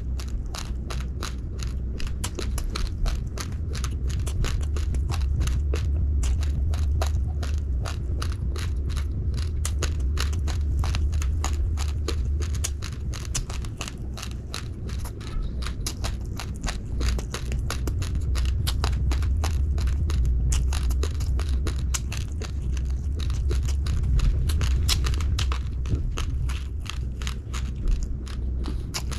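Close-up chewing of raw, uncooked rice grains: rapid, dense crunching and cracking of hard grains between the teeth, with a steady low rumble underneath.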